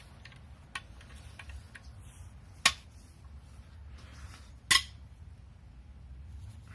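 Two sharp metallic cracks about two seconds apart, after a fainter click: VW 1.8T cylinder head bolts being broken loose with a wrench, starting from the outer edge and working in.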